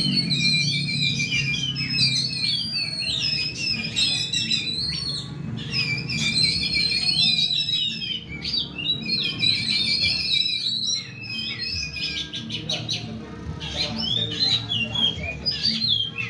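Oriental magpie-robins (kacer) singing long runs of fast, varied whistled phrases, over a low steady hum.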